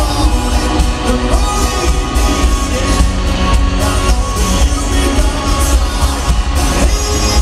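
Live rock band playing a song through a stadium sound system, with heavy, booming bass.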